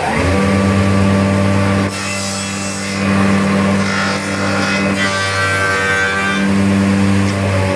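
Woodworking tenoning machine (ШС type) running, its motors humming steadily while the cutters work wood; from about two seconds in a higher cutting sound joins the hum.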